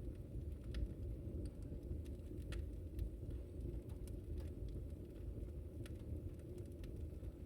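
Wood fire burning: a steady low rush of flames with sharp, sparse crackles and pops from the burning wood, about one a second.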